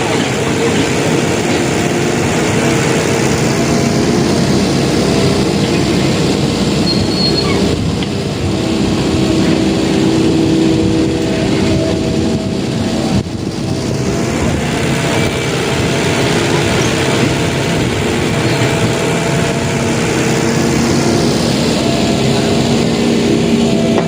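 Excavator's diesel engine running steadily under load, a loud noisy drone with a humming note that shifts in pitch now and then as the machine works.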